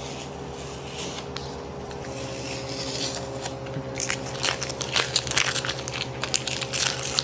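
Rapid, irregular crinkling and crackling from something being handled, getting denser and louder about four seconds in, over a steady low hum.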